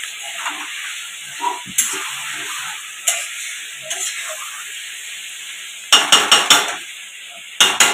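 Chicken frying in onion and spice paste, sizzling steadily as it is stirred with a metal spatula. There are occasional scrapes and knocks of the spatula on the pan, with a quick run of four knocks about six seconds in and two more near the end. This is the kosha stage, slow-frying the chicken in its masala.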